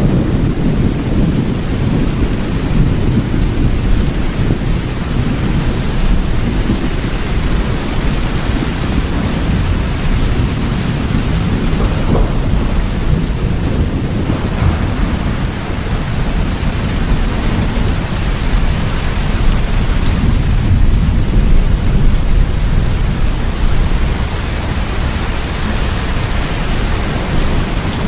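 Steady heavy rain with a constant deep rumble beneath the hiss, swelling slightly about two-thirds of the way through.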